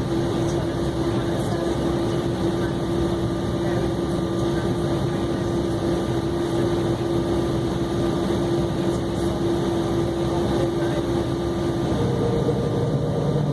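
Cabin noise of an Embraer E190 with its GE CF34 turbofans at idle: a steady hum carrying one constant tone. About twelve seconds in the tone steps up in pitch and a deeper note joins it as the engines begin to spool up for takeoff.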